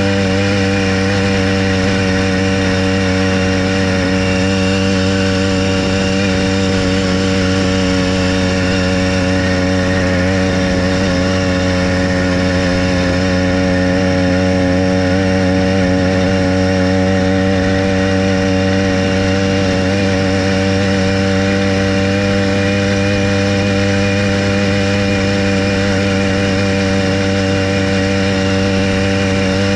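Small engine of a motorized bicycle running at a steady cruising speed, holding an even pitch throughout.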